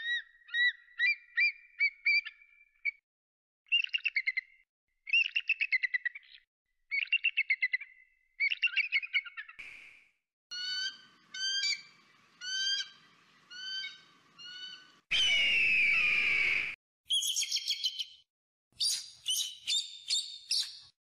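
Birdsong: a series of separate bird phrases of quick repeated chirps and trills, broken by short gaps of quiet. A louder, harsher sound lasting about a second and a half comes about fifteen seconds in, followed by higher-pitched chirps.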